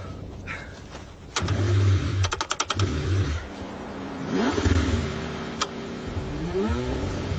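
Cold car engine cranking and revving in short bursts. The pitch rises and falls from about a second and a half in, with a quick run of clicks soon after.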